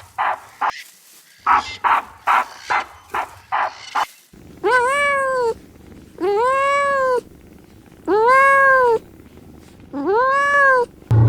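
A string of short, quick calls, then a cat meowing four times, each meow a drawn-out call that rises and falls in pitch.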